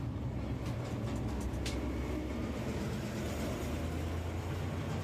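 Steady low rumble of a moving train, with a brief sharp click about one and a half seconds in.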